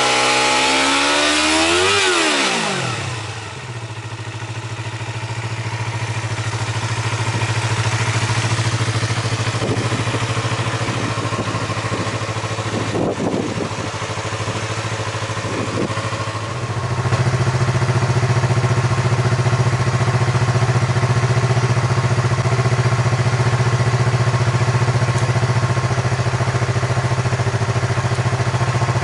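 Yamaha MT-25 parallel-twin engine through an aftermarket Yoshimura exhaust. It starts at high revs and falls quickly to idle about two to three seconds in, gives a few brief small rises in pitch, then idles steadily and louder from about halfway.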